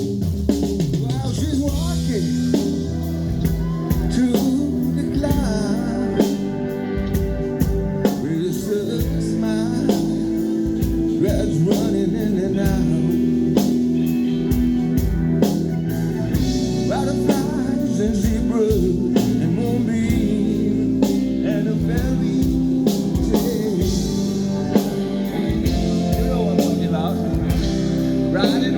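Live rock band playing a song, with drums, electric guitar and a singer.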